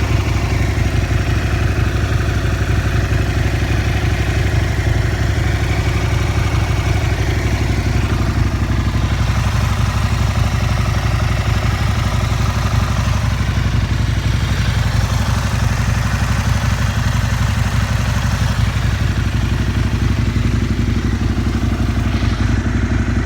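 Aprilia SL 1000 Falco's 60-degree V-twin engine idling steadily through a full LeoVince SBK aftermarket exhaust, a loud, even, low pulsing exhaust note with no revving.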